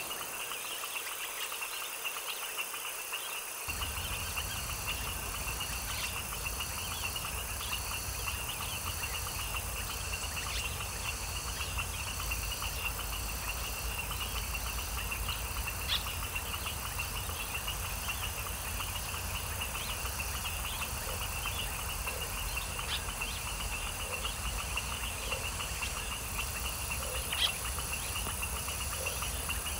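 Night nature chorus: a steady, high-pitched trilling of crickets and other insects, with scattered short chirps. A low rumble joins about four seconds in, and a few faint low frog calls come in the second half.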